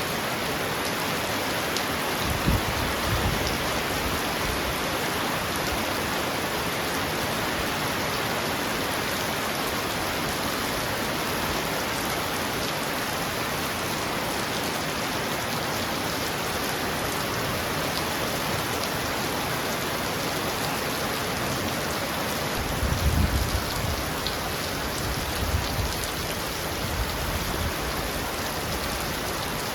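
Heavy rain drumming steadily on a roof, a dense even hiss. Low rumbles rise under it about two seconds in and again for a few seconds in the last quarter.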